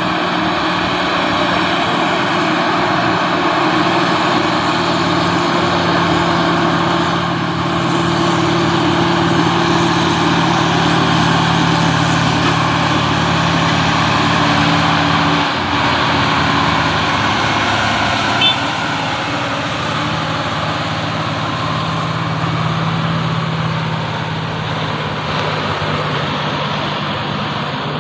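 Truck engine running steadily under way, with a brief dip in its note about halfway through.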